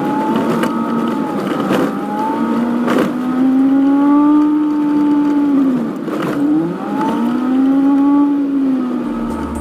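Daihatsu Feroza's engine and road noise played back at four times speed: the engine note rises and falls in quick repeated sweeps as the car speeds up and eases off. A few sharp knocks come through along the way.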